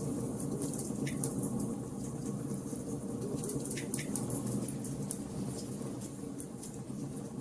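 Wood fire crackling in a fireplace: a steady low rush of burning logs with sharp pops and snaps, a few of them about a second in and around four seconds in.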